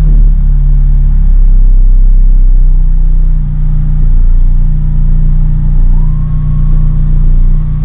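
Lotus Elise engine idling just after starting, settling down during the first second or so. About six seconds in a faint whirr comes on over the idle and holds steady; the owner suspects the fuel pump.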